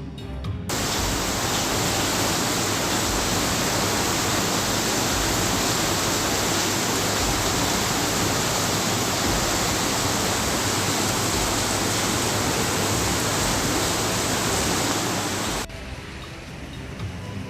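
Heavy rain pouring down, a loud steady hiss that sets in about a second in and drops away abruptly near the end, where softer rain continues under music.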